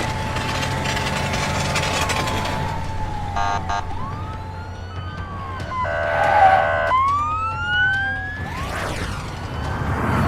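Police car siren wailing, its pitch rising and falling in long sweeps, with two short steady blasts about three and a half and six seconds in.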